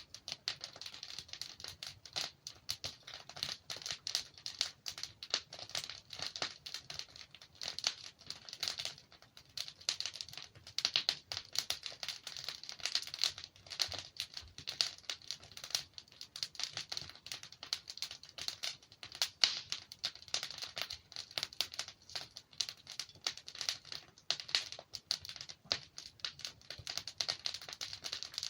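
Logs burning in a fireplace: dense, continuous crackling with frequent louder pops scattered throughout.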